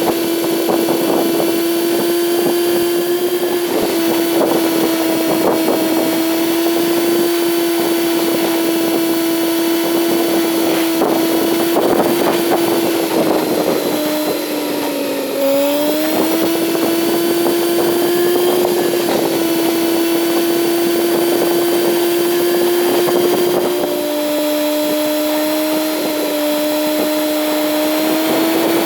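Kawasaki Z900's inline-four engine running at a steady cruise, its note dipping briefly and climbing back about halfway through, then stepping down to a lower pitch later, as with an upshift.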